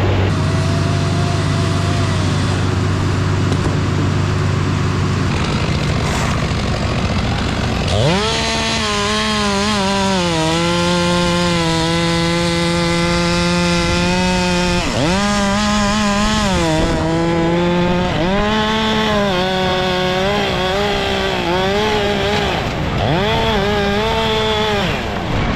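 A steady low engine hum for the first few seconds. About eight seconds in a two-stroke chainsaw revs up and cuts, its pitch holding high and then dropping and recovering several times as the chain loads up in the wood.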